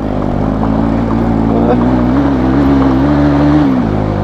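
Bajaj Pulsar NS200 motorcycle's single-cylinder engine running at steady revs under way. The note wavers slightly and eases off about three-quarters of the way through.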